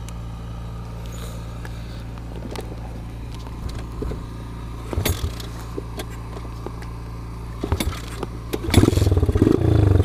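Kawasaki KLX110 pit bike engine, bored out to 165 cc with an FMF exhaust, being started. A few scattered clanks come over a steady low hum, then near the end the engine fires and runs loud with a good throaty sound.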